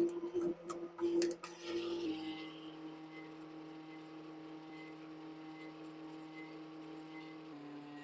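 Wood lathe motor running with a steady hum, a few sharp knocks in the first two seconds, and a slight drop in pitch near the end.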